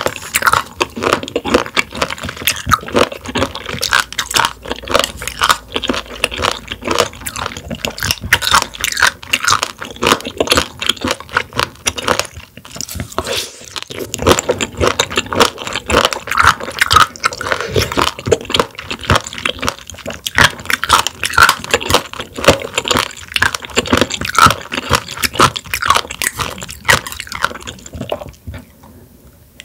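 Close-miked chewing of raw sea squirt: wet, crunchy bites in quick succession, with a brief pause about halfway through and a quieter spell near the end.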